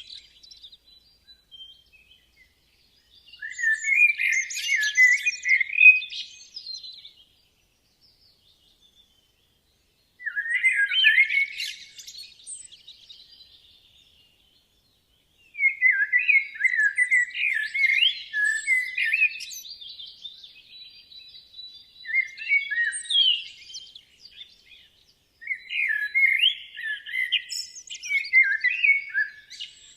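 Songbird song: varied warbling phrases a few seconds long, repeated with short pauses in between.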